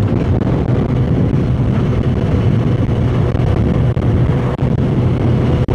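Suzuki GSX-S1000's inline-four engine running steadily at cruising revs on the road.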